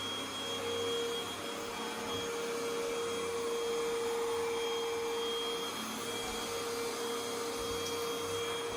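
KANFUAQ cordless vacuum cleaner running steadily: an even motor hum with a high whine over it and a rush of air.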